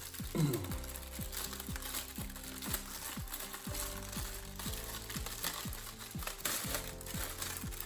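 Plastic bag crinkling and rustling as a makeup bag is pulled out of it, over background music.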